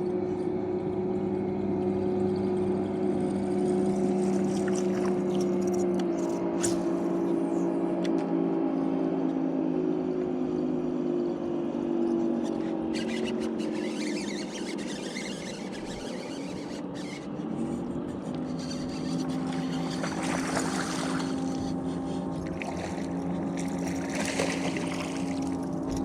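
Boat's outboard motor running steadily, its pitch dropping about six seconds in and climbing again around eighteen seconds, with wind and water rushing past.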